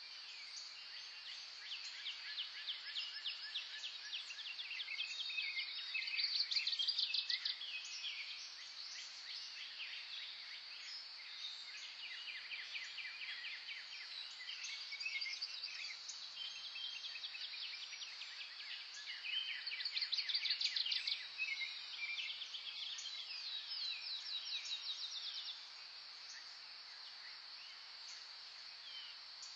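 Several songbirds singing: many short high chirps and quick trills that overlap, with the loudest rapid trills about six seconds in and again about twenty seconds in. A steady high hiss runs beneath the song.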